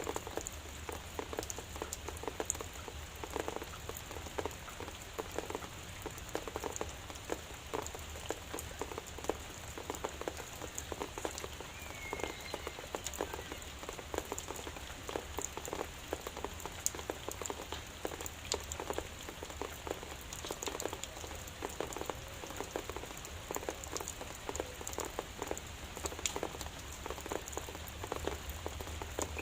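Drizzle pattering steadily, a dense, even stream of small drop ticks.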